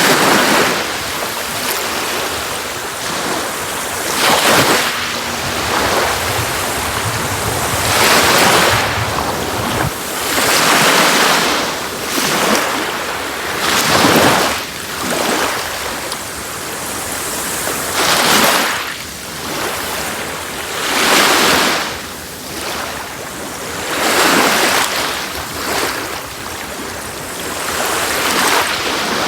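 Sea waves breaking and washing up a beach, a steady rush of surf that swells every few seconds as each wave comes in.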